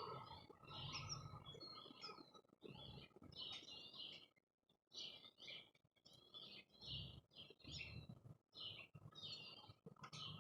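Small songbirds chirping faintly and repeatedly at a feeder, in a quick run of short calls.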